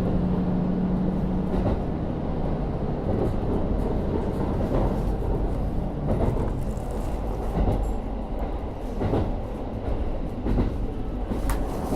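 Cabin sound of a KiHa 40 diesel railcar running on the line: a steady engine note from the N-DMF13HZB diesel drops away about two seconds in, leaving the low running rumble with wheel clacks over rail joints roughly every second and a half.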